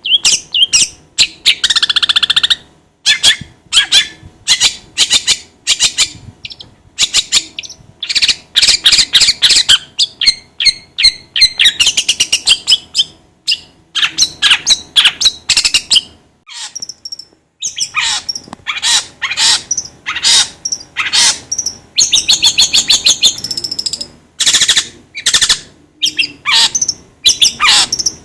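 Long-tailed shrike (cendet) singing in rapid bursts of harsh chattering and fast trilled notes, broken by short pauses, with one longer pause a little past the middle.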